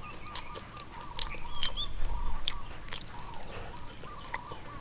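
Crunching and chewing of a crispy breaded fried chicken leg being bitten and eaten, as sharp crackles that get louder about a second in. Behind it, a steady run of short high chirps repeats about three to four times a second.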